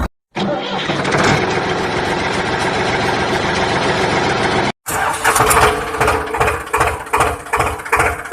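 Engine running in two edited stretches, each broken off by a sudden cut to silence. In the second stretch it chugs unevenly, about four or five beats a second.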